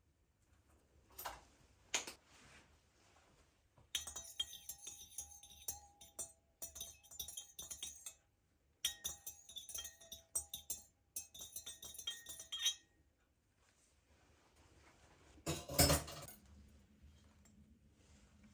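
Glassware and dishes clinking and knocking: a couple of single clinks, then several seconds of rapid clinking, and a louder clatter near the end.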